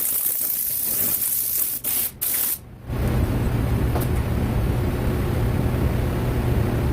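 Sandpaper on a sanding block rubbing back and forth over body filler, a scratchy hiss in strokes about twice a second, broken by short gaps about two seconds in. From about three seconds a steady machine drone with a low hum takes over.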